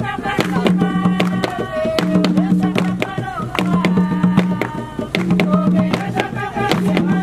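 Jongo hand drums playing a steady repeating rhythm, with voices singing over them.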